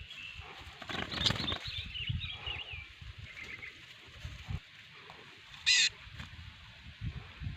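Small bird twittering in quick, high chirps over the first few seconds, over low rustling and handling thumps, with one short, sharp high-pitched sound a little before the end.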